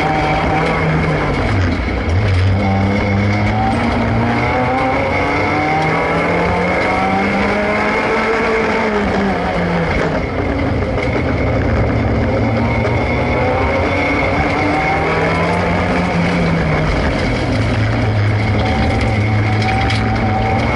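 Race-prepared hatchback's engine heard from inside the cabin during a slalom run. The revs climb and drop again and again with the gear changes and braking, with a sharp drop about ten seconds in.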